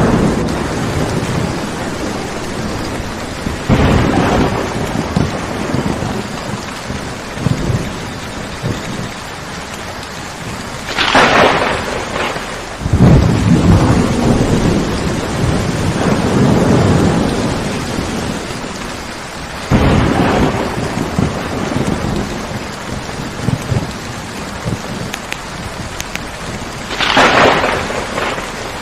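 Steady heavy rain with repeated thunder. There are sharp cracks about 11 and 27 seconds in, other claps near 4 and 20 seconds, and a long low rumble starting about 13 seconds in.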